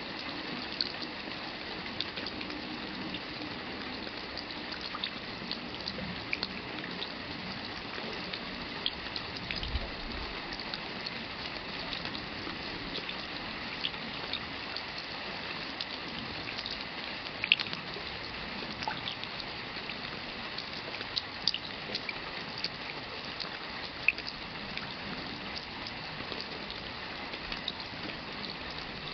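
Steady rain falling: an even hiss with many sharp taps of single drops landing close by, scattered irregularly, a few of them louder than the rest.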